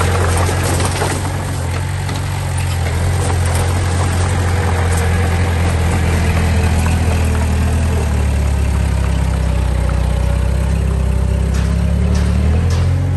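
Diesel engine of heavy earth-moving machinery running steadily, its note shifting a little about two-thirds through, with a few sharp clanks near the end.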